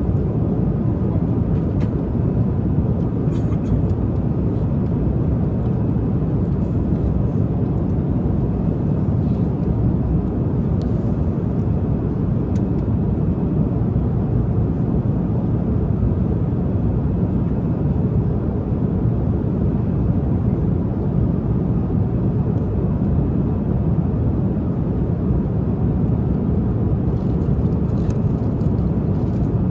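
Steady low rumble of an airliner cabin in flight, with a few faint light ticks.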